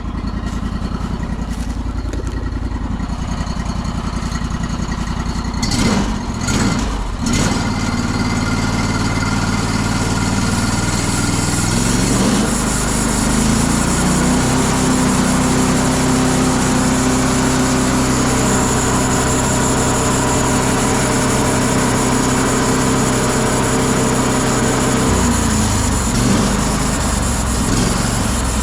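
A petrol engine running steadily, blipped a few times about six seconds in. About halfway through the revs rise and hold at a higher, steady speed, then drop back a few seconds before the end.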